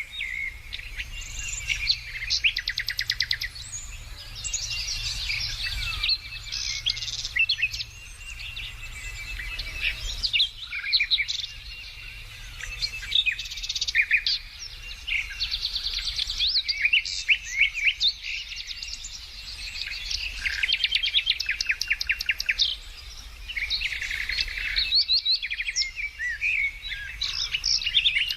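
Several songbirds singing and chirping at once, with overlapping whistled notes and quick rattling trills.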